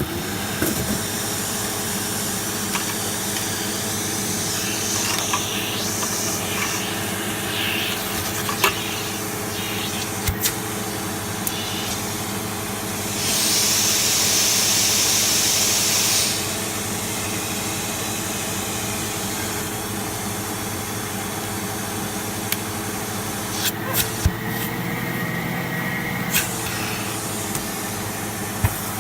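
Vacuum cleaner switched on and running steadily, sucking at a hose clogged with grit, with scattered sharp clicks. A louder rushing hiss of air lasts about three seconds, starting some thirteen seconds in.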